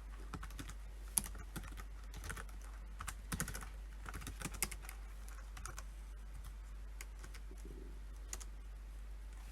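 Typing on a computer keyboard: irregular key clicks in quick runs, thinning to a few single keystrokes in the second half, over a faint steady low hum.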